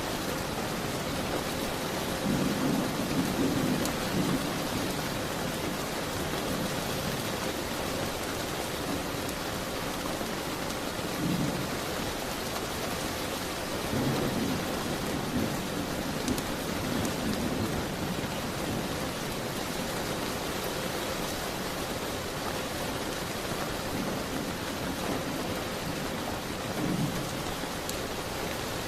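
Steady rain falling, with brief low rumbles swelling up every several seconds.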